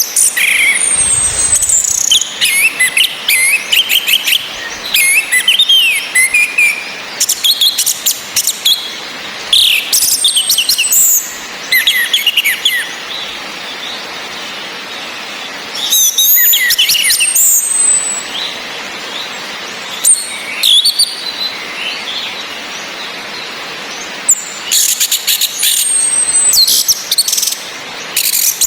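Orange-headed thrushes calling and singing in bursts of a few seconds with short pauses between. There are sharp high chipping calls from a female and a male's quick song phrases with downward-sliding whistles, over a steady hiss of rain.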